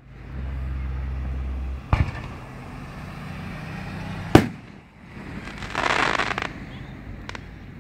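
Aerial fireworks shells bursting: a sharp bang about two seconds in and a louder one at about four and a half seconds, then a dense crackling spell around six seconds and a small pop near the end. A low steady rumble runs under the first two seconds.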